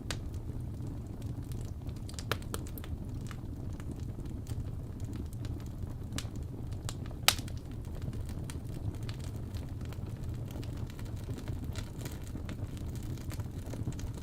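Wood fire burning in a fireplace: a steady low rumble of flames with scattered crackles and pops, the loudest a sharp single pop about seven seconds in.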